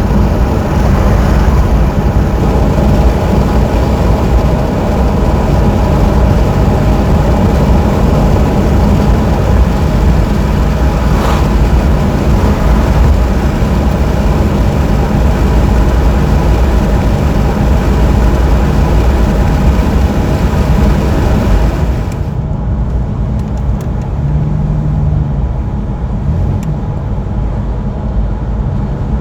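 Steady road and engine noise of a car driving. About two-thirds of the way through, the hiss drops away and the sound turns duller and slightly quieter.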